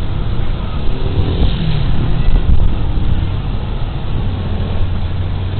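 Suzuki Burgman Street 125 scooter's single-cylinder engine running steadily on the move, recorded on a rider-worn body camera, with a dense rush of road and wind noise over a low engine drone. A pitched tone falls briefly about a second and a half in.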